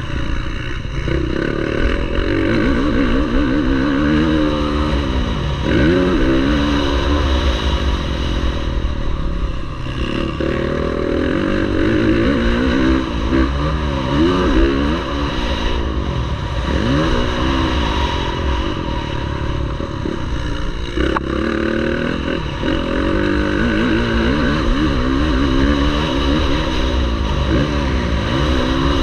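Motocross bike engines racing, revving up and falling back over and over as the throttle opens and closes, with more than one bike heard at once.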